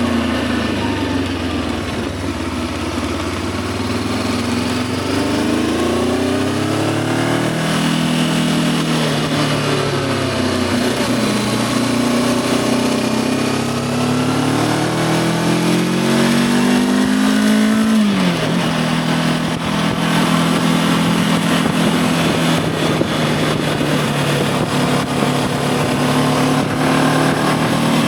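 Voge 525 DSX motorcycle's parallel-twin engine under way, its pitch rising and falling with the throttle through several accelerations. About eighteen seconds in the pitch drops sharply, then holds steady at a cruise.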